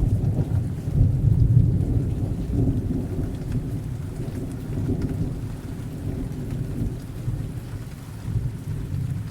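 Thunder rumbling low and long over steady rain. The rumble swells about a second in, then rolls on and slowly fades away.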